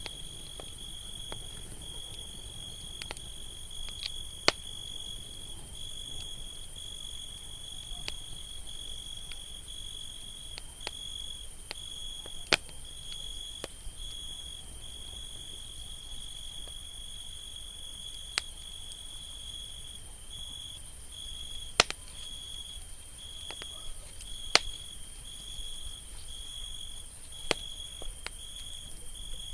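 Campfire burning with a low rumble and scattered sharp crackling pops, a dozen or so, some loud. A steady high insect trill with short regular breaks runs behind it.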